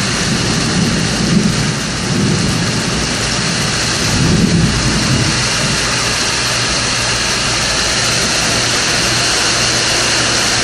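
Heavy rain pouring steadily, with thunder rumbling about a second in and again around four to five seconds in.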